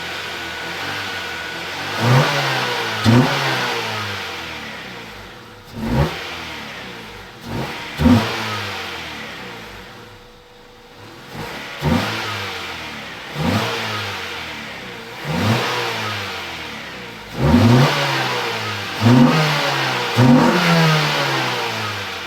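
1994 Integra's four-cylinder engine revved in short blips about a dozen times. Each rev jumps up sharply and sinks slowly back toward idle. The engine is burning through Seafoam cleaner fed into its fuel, crankcase and intake vacuum line to clear carbon from an engine that fails emissions on high hydrocarbons.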